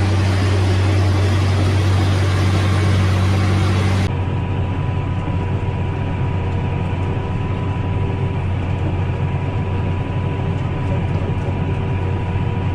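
A heavy farm machine's engine drones steadily. About four seconds in it cuts abruptly to another steady engine recording.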